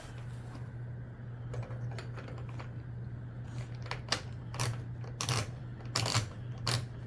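Several short clicks and scrapes of hard gear being handled, bunched in the last three seconds, over a steady low hum.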